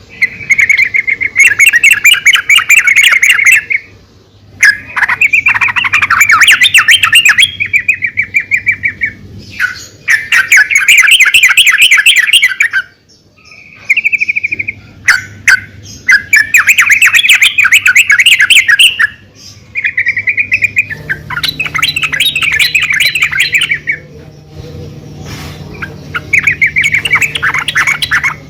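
Female yellow-vented bulbul calling: repeated bursts of rapid, chattering notes, each lasting a second to a few seconds, separated by short pauses.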